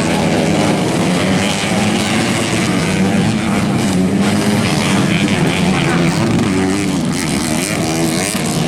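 Dirt bike engines running and revving on a grasstrack or motocross track, the pitch rising and falling continuously.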